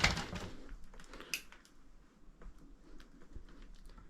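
Footsteps and shifting debris on a cluttered floor of an old house: a sharp knock at the start, then scattered light crunches and clicks, with one louder crack a little over a second in.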